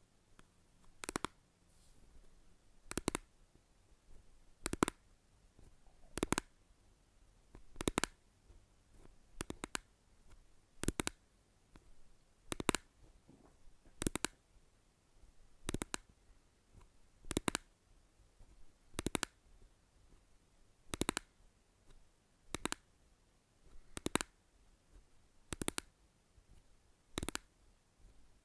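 Slow, evenly spaced ASMR tapping: a short, sharp tap or click about every second and a half to two seconds, over a quiet background.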